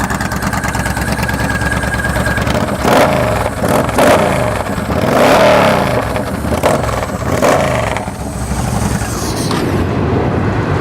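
Yamaha Stryker XVS1300's V-twin engine running through an aftermarket Cobra 2-into-2 exhaust with a rumble, blipped several times between about three and eight seconds in, then settling back to idle.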